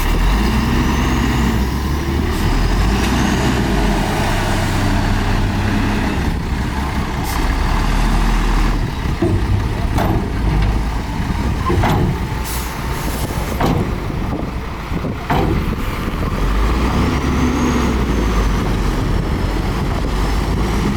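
Heavy diesel earthmoving machinery working, a bulldozer and dump trucks, with the engine revving up and falling back twice. In the middle there is a run of sharp metallic clanks.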